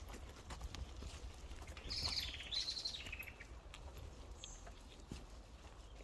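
A songbird's fast trill, dropping in pitch, about two seconds in and lasting about a second, over the steady low rumble and light clicking rattle of a bicycle rolling along a muddy dirt trail.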